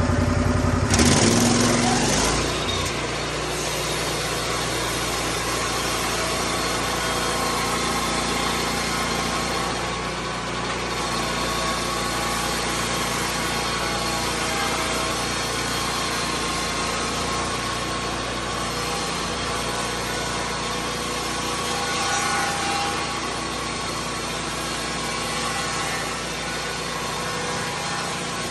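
Lucas Mill 10-30 swing blade sawmill's petrol engine rising from idle to full throttle about a second in, then running steadily as its circular blade cuts through a white pine log.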